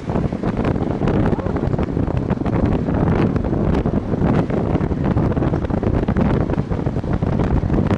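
Heavy wind buffeting the microphone on a moving Viper V250C cruiser motorcycle, a dense rumble with constant crackling gusts, with the bike's engine running underneath.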